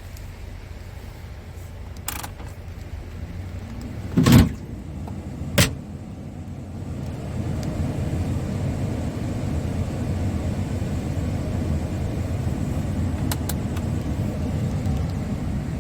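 Scania R500 truck's V8 diesel engine running steadily, its sound growing louder about halfway through. A loud thump comes about four seconds in and a lighter knock just after it.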